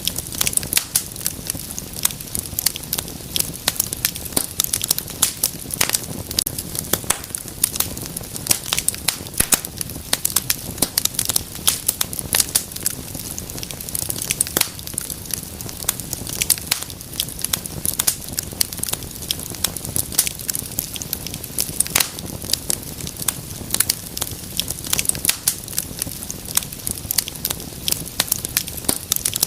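Wood fire crackling steadily, with frequent sharp, irregular pops and snaps over a low steady hiss of flame.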